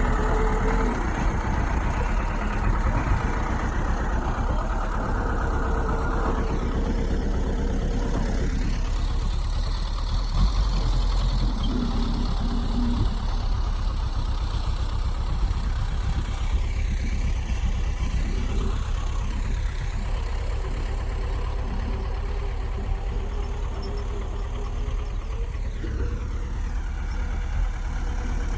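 Bulldozer's diesel engine running steadily with a deep rumble. It is louder and busier for roughly the first eight seconds, then settles to a lower, even note.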